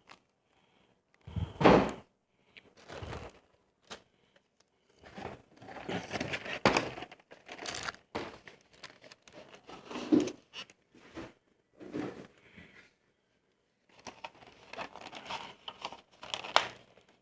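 Crinkling and crumpling of food packaging, a wrapper or paper bag, handled in irregular bursts close to the microphone, with short quiet gaps between them.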